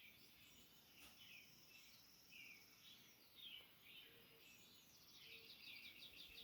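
Faint birdsong: several birds chirping and trilling in quick short phrases, with the song growing busier near the end.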